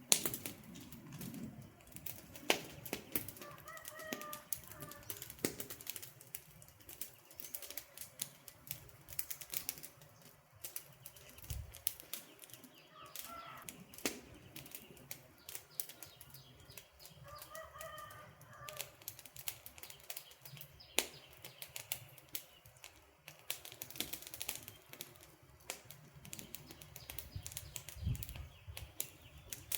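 Wood campfire crackling, with irregular sharp pops and snaps. A bird gives a short call a few times in the background.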